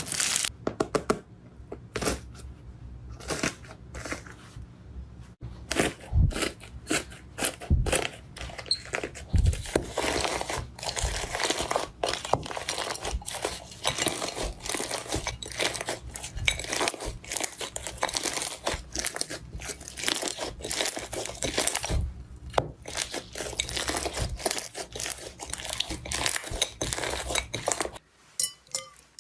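Close-up crunching and crackling of a crunchy material being crushed, a dense run of irregular small cracks and crinkles that stops abruptly near the end.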